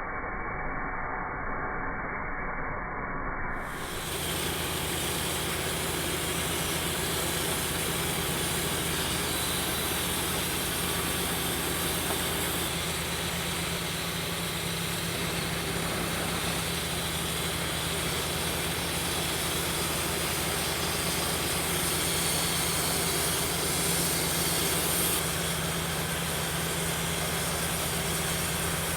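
Woodmizer LT28 portable band sawmill running steadily: an engine hum under a loud, even hiss. The sound changes abruptly about three and a half seconds in.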